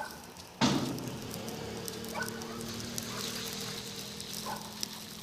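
Campfire crackling. A sudden loud burst comes a little over half a second in, followed by a steady low pitched drone, and short high yelps sound a few times.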